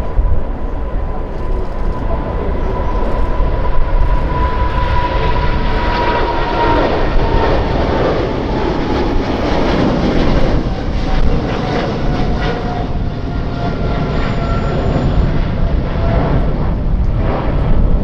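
Jet airliner's engines running as it passes close by: a loud rushing noise that swells through the middle, over a high whine that drifts slowly lower in pitch.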